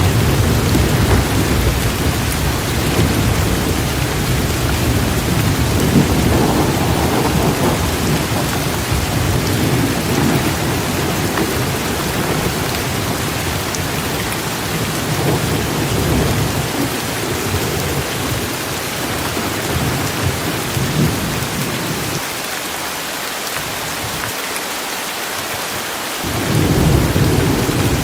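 Heavy rain pouring steadily, with thunder rumbling low underneath. The rumble eases off in the second half, nearly dies away, then rolls back in near the end.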